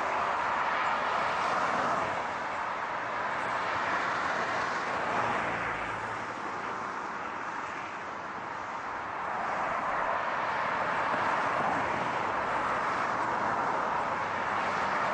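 Steady rushing road noise of cars, fading a little midway and swelling back up again.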